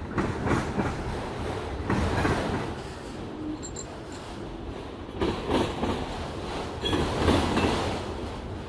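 A train's cars rolling past, with a steady rumble and recurring surges of wheel clatter on the rails.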